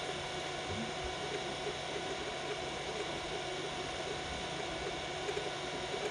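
Biqu BX 3D printer running a print at 120 mm/s: a steady mechanical whir of its fans and stepper motors.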